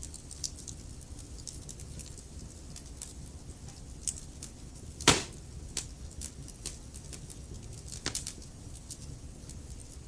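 Wood fire in a fireplace crackling: a low rumble from the flames under frequent small snaps and ticks, with one loud pop from a log about halfway through and another sharper pop near the end.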